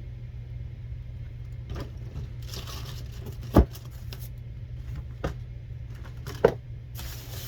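Gifts and packaging being handled and set down on a table: light rustling with a few knocks, the loudest about three and a half seconds in and another near the end, over a steady low hum.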